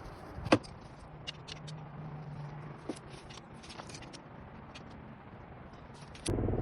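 Metal clinks and taps of a spanner on a motorcycle's oil drain bolt as it is tightened, with one sharp click about half a second in. Near the end a louder steady rumbling noise starts abruptly.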